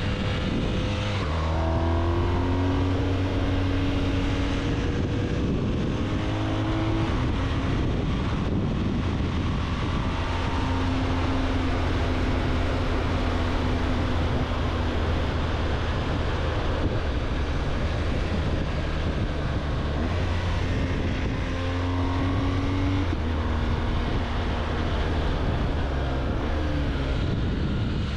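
BMW R1200GS flat-twin engine heard on the move, pulling up through the revs near the start, running steadily through the middle, and rising in pitch again in the last part, over constant wind and road noise.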